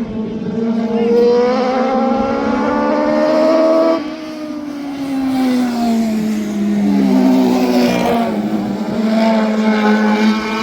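High-revving race engine under hard acceleration. The revs climb for about four seconds, drop off sharply, sag, then climb again and hold high.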